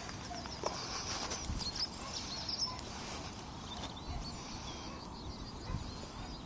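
Small birds chirping in short, repeated calls over a low, steady outdoor background noise.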